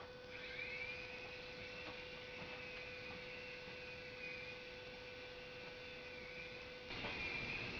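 Small electric motors of a toy coaxial RC helicopter whining in flight, the high whine wavering in pitch as the throttle changes and growing louder near the end, over a steady low hum.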